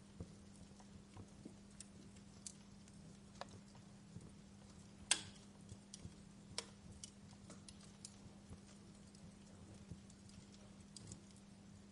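Wood fire crackling softly, with irregular pops and snaps, the loudest about five seconds in, over a faint steady low hum.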